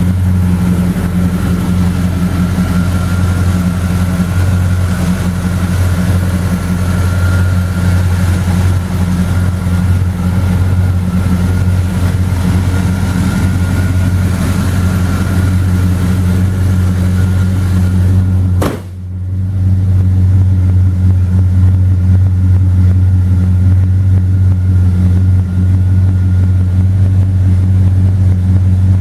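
The 455 cubic-inch V8 of a 1971 Oldsmobile Cutlass running at a steady speed, a deep even exhaust note. It drops out abruptly for a moment about two-thirds of the way through, then carries on unchanged.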